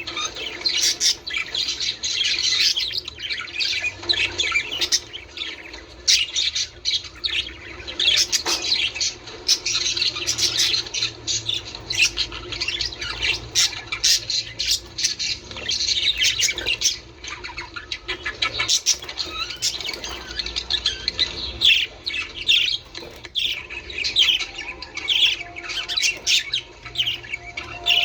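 Many budgerigars chattering at once: a continuous, dense mix of warbling chirps and sharp squawks.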